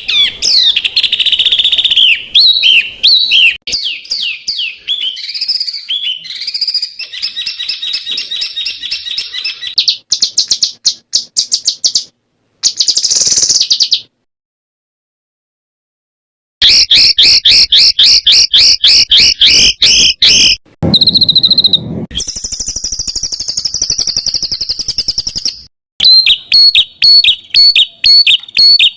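Songbird song full of varied phrases: rapid trills, quick rows of repeated high chirps and sliding whistles, changing abruptly from one phrase to the next. The song breaks off for about two and a half seconds of silence roughly halfway through, then resumes.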